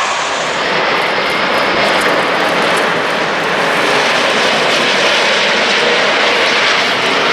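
Jet airliner passing close, its engines giving a loud, steady rush of noise.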